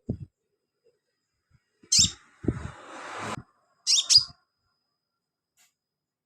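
Sunbird giving two short bursts of sharp, high chirps, about two and four seconds in. Low thumps come with them, and there is a brief rustle between the bursts.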